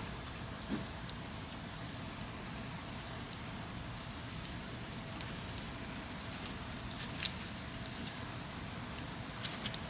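Crickets chirring in one constant high, thin tone over a steady hiss of rain, with a couple of faint clicks.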